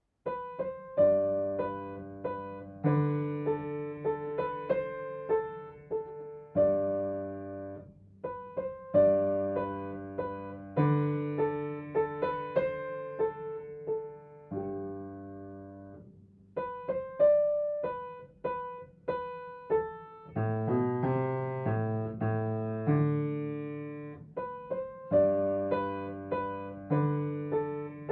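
Piano playing a simple beginner piece in G position: a right-hand melody of single notes over held low left-hand notes, in short phrases with brief pauses between them.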